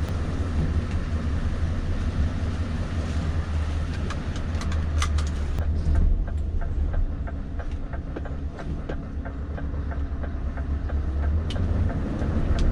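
Steady low engine drone with a run of light, uneven clicks and rattles through the middle.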